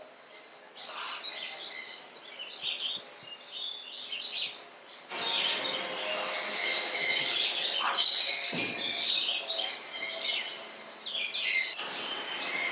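Small birds chirping and twittering, many short high calls overlapping, growing louder and busier about five seconds in.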